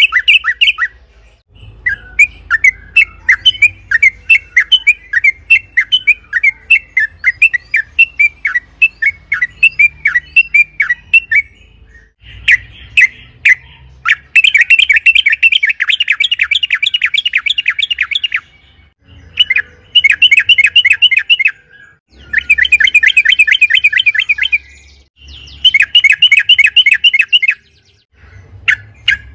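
Yellow-vented bulbul (trucukan) singing energetically in long, rapid chattering runs of quick notes. Several runs of a few seconds each follow one another with short pauses between them. The first run lasts about ten seconds.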